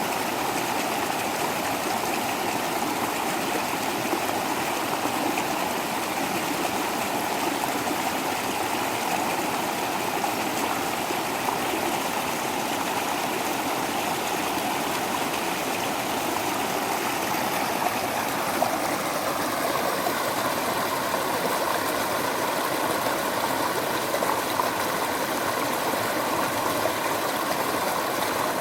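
Water rushing and splashing steadily over a small waterfall.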